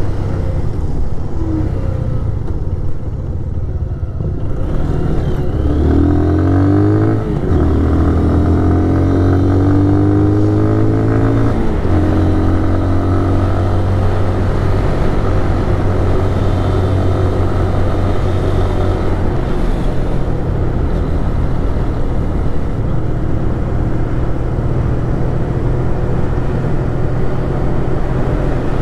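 Small single-cylinder motorcycle engine running under way. Its pitch climbs as it accelerates from about six seconds in, dropping back at a gear change near seven seconds and again near twelve, then it holds a steady cruise.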